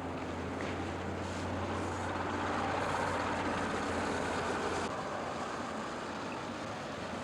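City bus running with road traffic noise: a steady noisy drone with a low hum that drops away about five seconds in.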